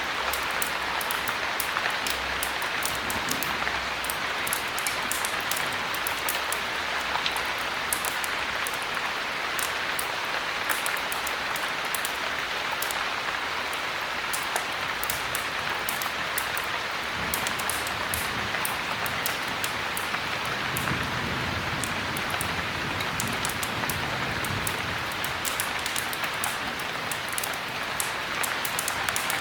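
Heavy rain falling steadily, with sharp crackles from a wood fire in a fireplace scattered through it.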